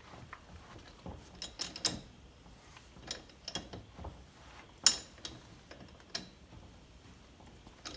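Sharp metallic clicks and ticks at an uneven pace from a thread tap being turned by hand into the stripped spark plug hole of a Stihl chainsaw's cylinder. The loudest click comes about five seconds in.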